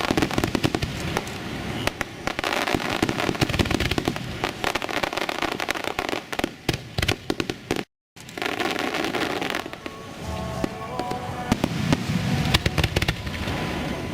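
Dense fireworks display: many shell bursts and crackling reports in quick succession, with music playing underneath. The sound cuts out completely for a moment about eight seconds in.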